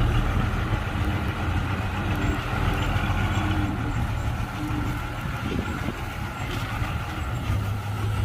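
Heavy diesel machinery engine running steadily with a low drone that eases slightly in the middle and picks up again near the end.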